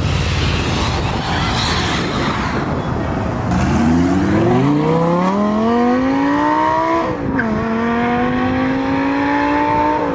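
A car accelerating hard: a rough, loud engine and exhaust noise at first, then the engine note climbing steadily through one gear, dropping at a quick upshift about seven seconds in, and climbing again in the next gear, as a manual car pulls away.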